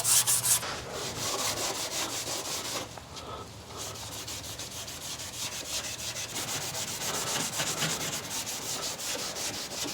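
Hand scuffing of painted sheet metal with an abrasive, around a car's wheel opening: rhythmic back-and-forth rubbing strokes that are louder for the first half second, then steady. This prepares the surface for rust sealer and seam sealer.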